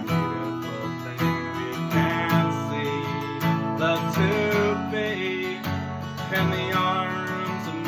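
Music: an acoustic guitar strummed steadily, with a melody line that bends in pitch above it.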